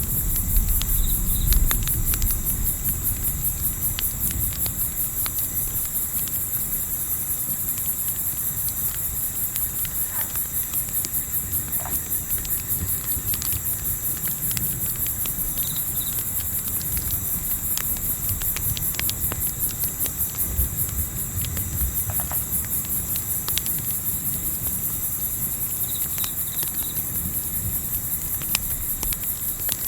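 Dense chorus of crickets chirping in a fast, steady pulse, over scattered small pops and crackles of a campfire and a low, steady rumble of wind.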